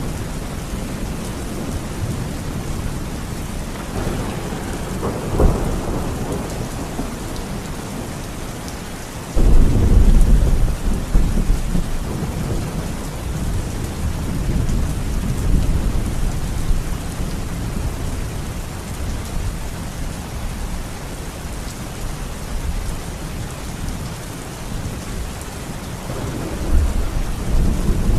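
Heavy rain falling steadily during a thunderstorm, with a sharp thunderclap about five seconds in and a sudden loud, deep thunder rumble breaking about nine seconds in and rolling on for several seconds; more thunder builds near the end.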